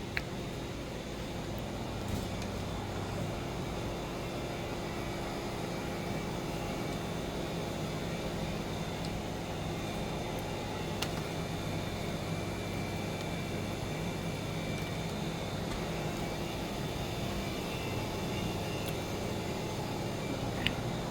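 Steady low mechanical hum and background noise with a few faint ticks.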